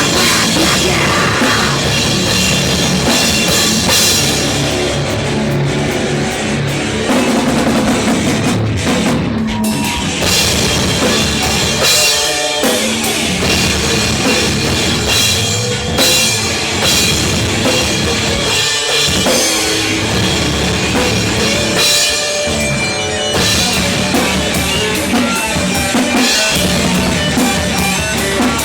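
A live band playing loud heavy metalcore music, with a drum kit and a pounding bass drum.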